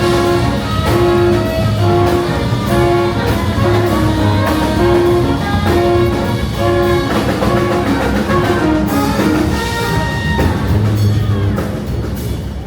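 Jazz music with brass horns and drums, playing a repeating riff of short notes over a steady beat.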